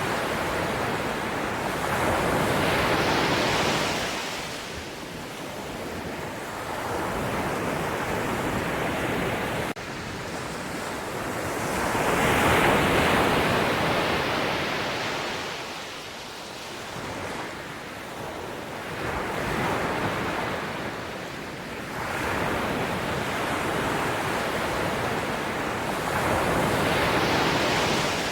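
Sea waves breaking, the surf swelling and fading away every few seconds in a rushing hiss.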